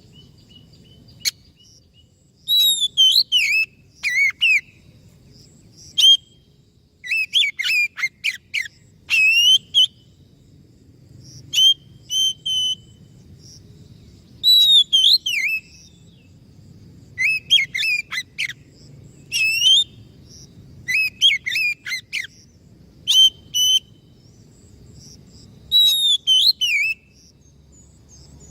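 Oriental magpie-robin (kacer) singing: phrases of quick whistled notes that sweep up and down, coming every second or two with short pauses between.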